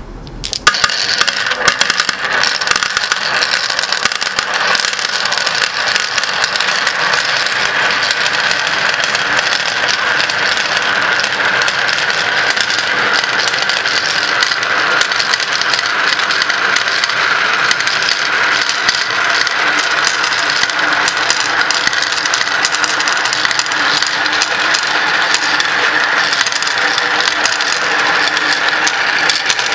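Many glass marbles rolling and clicking along a marble run track, a dense, steady rattle of small clicks.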